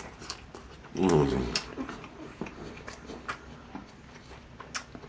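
Mouth noises of a man eating fried chicken tenders: wet chewing with sharp clicks and crunches throughout. About a second in comes a falling hummed 'mmm' of enjoyment.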